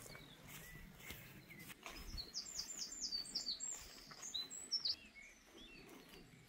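A songbird singing a fast run of short, high chirping notes, from about two seconds in until about five seconds in, over faint outdoor background noise.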